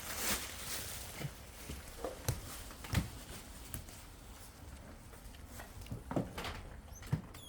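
Irregular knocks and rustling of gym gear being handled, with a few louder thumps.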